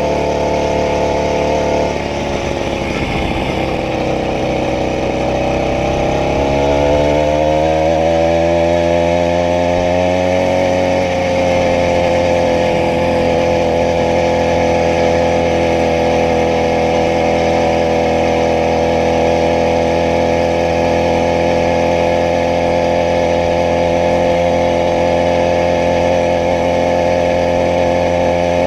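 80cc two-stroke bicycle engine kit running: its speed sags a couple of seconds in, climbs back up over the next several seconds, then holds a steady idle.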